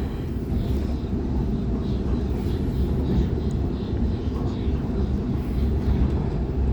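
Ride noise heard from inside the carriage of a Sydney Trains Waratah A-set electric multiple unit running between stations: a steady low rumble of the wheels on the rails and the running gear.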